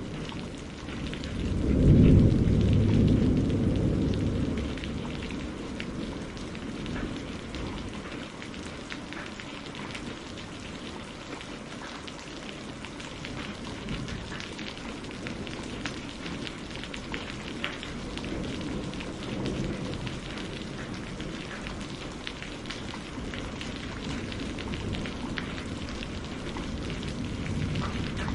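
Steady rain falling on a greenhouse, with many small drops ticking. A low roll of thunder swells about two seconds in and fades over a few seconds, and fainter rumbles come later.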